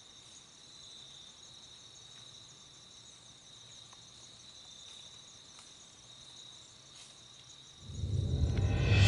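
Faint, steady insect chirping, crickets trilling continuously. About eight seconds in, loud music swells up and drowns it out.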